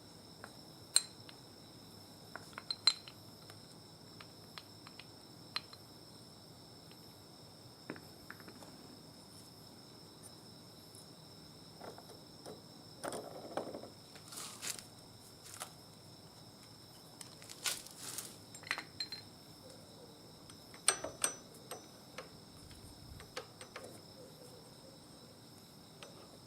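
Scattered metallic clinks and taps of tools and small parts being handled, over a steady high chirring of crickets.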